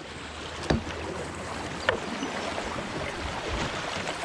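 Fast creek water rushing around a pedal kayak's hull as it moves through the current, with two sharp knocks on the kayak about a second apart.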